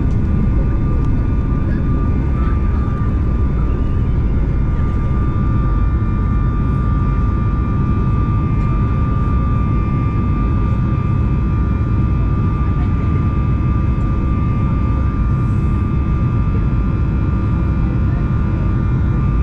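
Boeing 737 MAX 8-200's CFM LEAP-1B jet engines heard from inside the passenger cabin: a steady low rumble with a constant engine whine on top.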